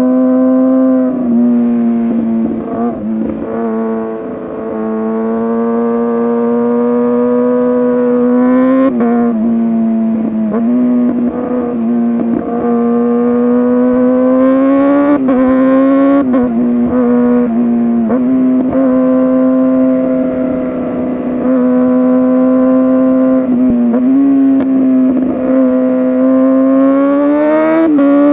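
Kawasaki ZX-6R 636's inline-four engine through an SC-Project exhaust, running at high revs under way. Its pitch climbs slowly and falls back abruptly several times, with an easing of throttle about two to five seconds in.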